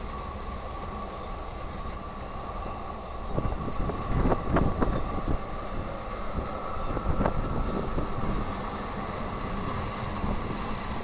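Freight cars of a manifest train rolling past a grade crossing: a steady rumble of steel wheels on rail, with a cluster of sharp clanks about four seconds in and another clank around seven seconds.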